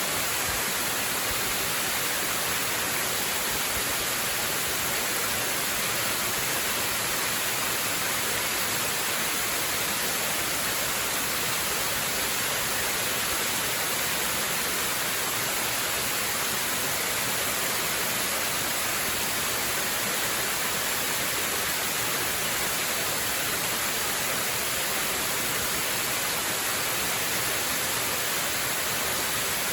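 Waterfall: a steady, unbroken rush of falling water, with the hiss strongest in the high end.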